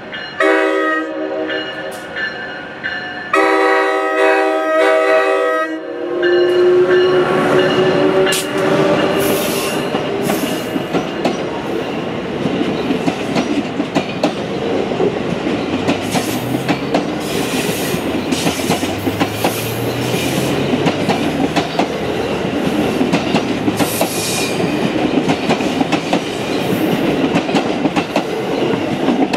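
An Amtrak AEM-7 electric locomotive's horn sounds a playful horn show: several blasts, ending in a longer one that stops about six seconds in. The passenger train then passes close by at speed, a steady rushing sound with the wheels clattering over the rail joints.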